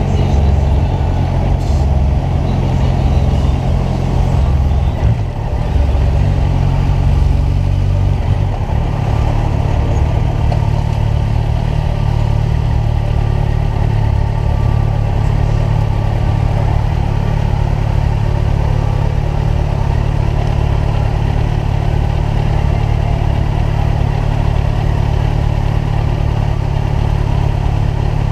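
Kawasaki Ninja 1000's inline-four engine running under way. Its pitch shifts between about five and eight seconds in, then settles into a steady drone for the rest of the stretch.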